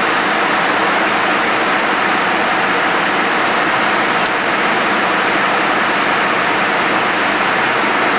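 Steady in-flight noise inside a Boeing 737-200 freighter: a constant rushing hiss of airflow and engine noise that holds even, with no change in pitch or level.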